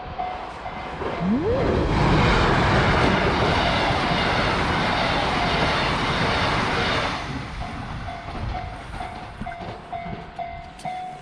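Level-crossing warning bell ringing in quick regular pulses while a train passes at speed, its rushing noise drowning out the bell for about five seconds; the bell is heard again after the train has gone by.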